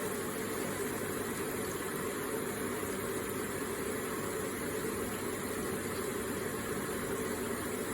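Electric water feature running: water trickling and splashing in an even, unbroken stream.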